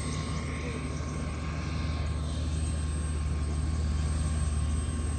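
Engine running with a steady low drone that grows a little louder about two seconds in.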